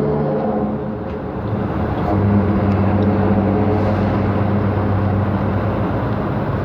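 Vehicle engine running with a steady drone, heard from inside the cab; its note shifts about two seconds in and then holds steady.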